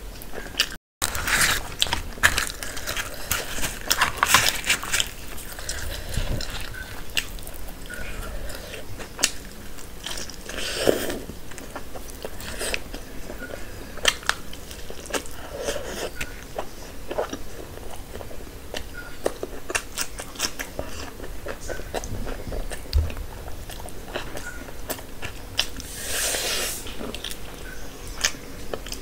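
Close-miked chewing and biting of puri and curried meat eaten by hand: wet mouth sounds, smacking and light crunching, with many small clicks throughout. A split-second gap in the sound about a second in.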